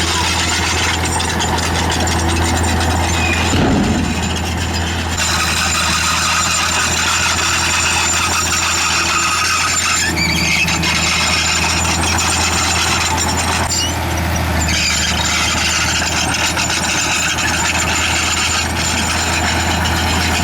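Crawler bulldozer working: its diesel engine running steadily under the high squeal of its steel tracks, with a brief low thump about four seconds in.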